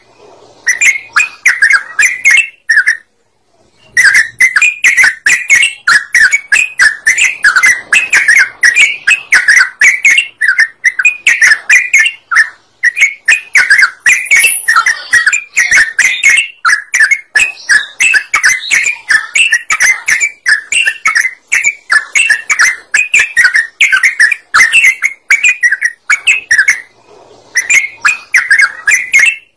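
Yellow-vented bulbul (trucukan) singing a continuous run of rapid, bubbly chattering phrases, used as a bird-lure call. There is a brief pause about three seconds in.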